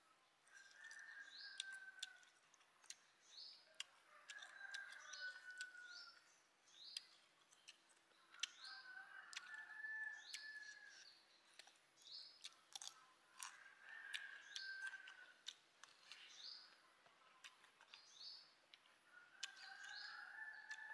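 Faint birdsong: a call falling slightly in pitch repeats every few seconds, with short rising chirps between. Scattered sharp clicks sound through it.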